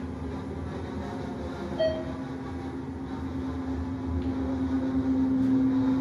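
Traction elevator hoist machine running with a steady hum that grows louder near the end, and a short squeak about two seconds in that recurs every few seconds. It is a weird noise the owner puts down to the machine being low on oil.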